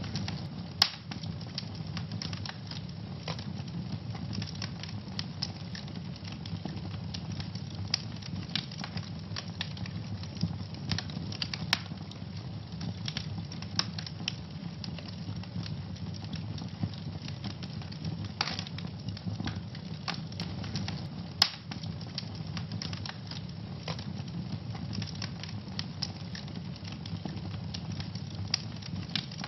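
Wood fire crackling in a fireplace: a steady low rumble of flames under constant small crackles, with a few sharp, louder pops from the burning logs.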